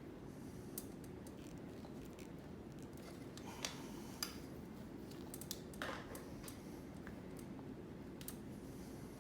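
A few light, sharp clicks and taps from handling tools and a lawn-chair strap while a screw hole is made in it, the two loudest about three and a half and four seconds in, over a faint steady hum.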